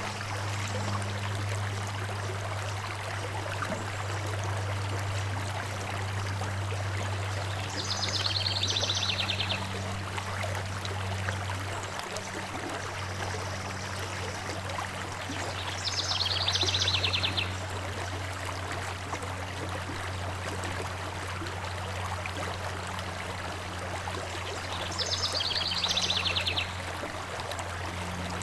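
A stream flowing steadily, with a constant low hum beneath the rush of water. A bird gives a short trilled call three times, about eight seconds apart.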